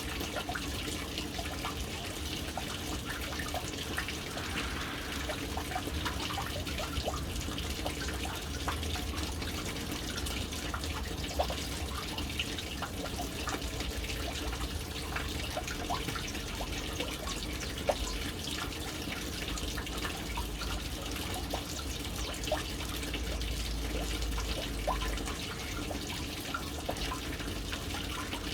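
Water running steadily from the inlet into a household water tank, splashing on the water with many small scattered drips, over a low rumble.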